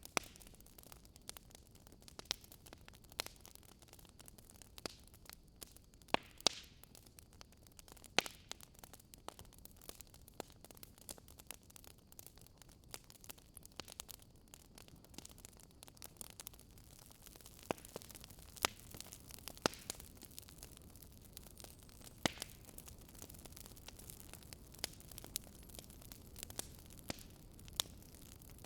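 Fire crackling softly: irregular sharp pops and snaps, a few each second, over a faint steady low rush of flame.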